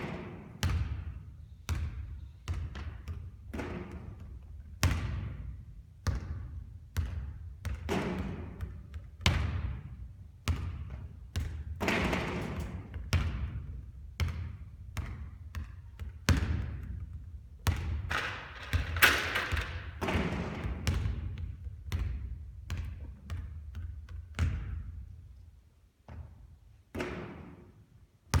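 Basketball hitting the court over and over in a stream of thuds and knocks about once or twice a second. A few hits are brighter and ring on briefly.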